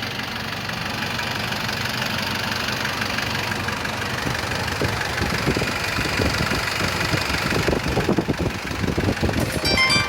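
Nissan Mistral's TD27T 2.7-litre four-cylinder turbo-diesel engine running at idle with the typical diesel knock, turning louder and more uneven in the second half. A few short high tones sound near the end.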